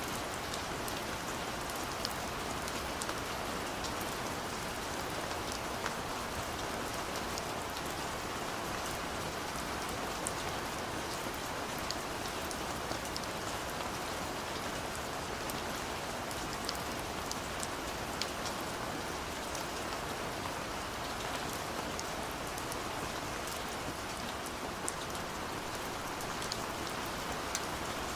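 Steady rainfall on a surface, an even hiss with many small scattered drop ticks.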